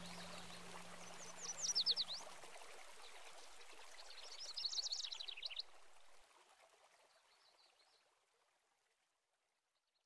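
A small songbird singing two short bursts of quick, falling chirps over the murmur of a stream, with fainter chirps later on; the stream sound fades away over the second half.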